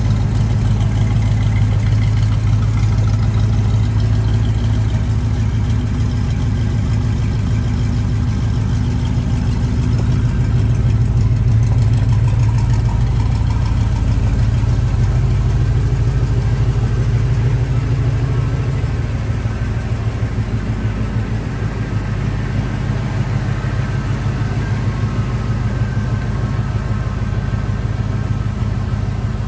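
Fuel-injected Ramjet 350 small-block V8 in a 1974 Chevrolet Camaro idling steadily, with a deep, even exhaust note.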